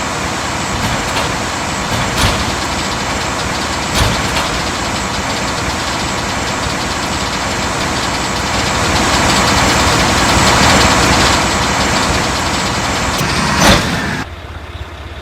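Mack rear-loader garbage truck's diesel engine running steadily, with a few sharp knocks and a swell in loudness for a couple of seconds past the middle. A loud knock comes near the end, then the sound drops off sharply.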